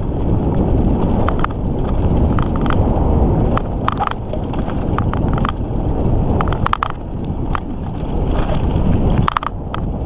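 Mountain bike ridden over rough trail: a steady low rush of wind and tyre noise, with frequent clicks and clatters from the bike rattling over the ground.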